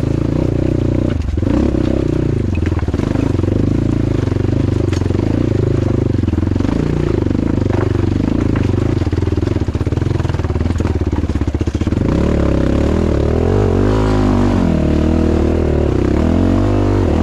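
Off-road motorcycle engine running steadily under load. In the last few seconds the revs rise and fall repeatedly.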